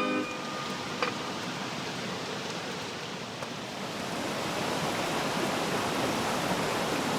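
Steady rushing of a mountain river flowing past, an even hiss of water that grows a little louder in the second half. A single faint click about a second in.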